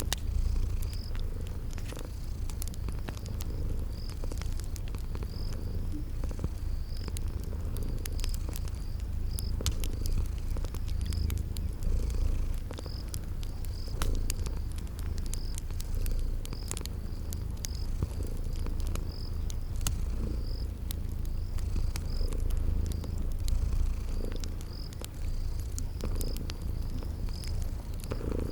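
Domestic cat purring close up, a steady low rumble that rises and falls every second or two, over the sharp pops and crackles of a wood fire. A cricket chirps high and faint about once a second.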